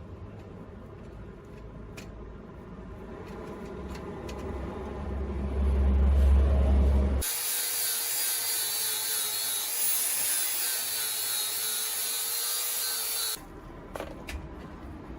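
Power tool working on an axe being restored. A low motor hum builds for the first half, then it cuts abruptly to a loud, high-pitched grinding or sanding noise with a slightly wavering tone for about six seconds, then cuts back to quieter handling with a few clicks.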